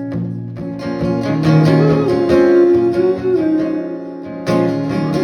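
Acoustic guitar strumming chords in an instrumental break of a live rock song, with no singing. The playing thins out about four seconds in, then a hard strum comes back in.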